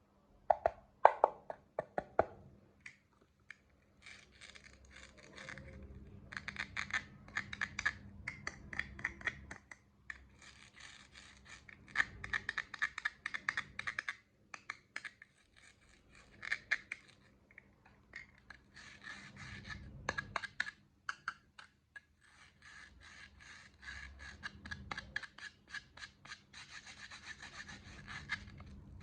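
Small hard candies pouring and clattering into plastic toy tubs: dense runs of tiny clicks and rattles that come in repeated pours, with a few loud sharp clicks about a second in. A faint steady hum runs underneath.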